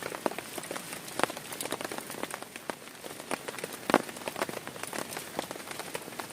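Heavy rain falling on a tent: a steady hiss with many irregular, sharp taps of single drops, one louder tap about four seconds in.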